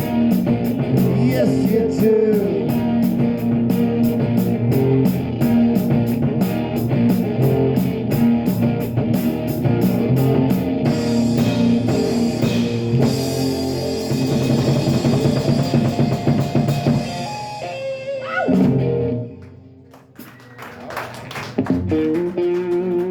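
Live rock band with drum kit, electric guitar and vocals playing the last bars of a song. The song ends on a final chord about eighteen seconds in, followed by a few scattered claps from a small audience.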